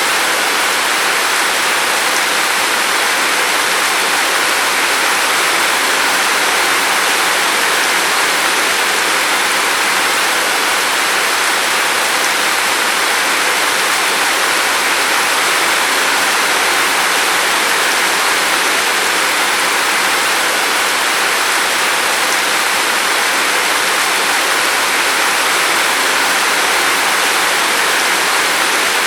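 Steady rain falling, an even hiss of water that holds the same level with no let-up.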